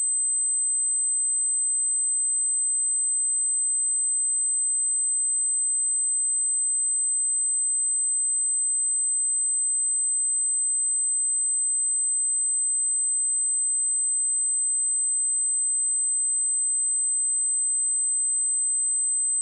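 A pure 8162 Hz sine-wave test tone, a single steady high-pitched whistle held at a constant level.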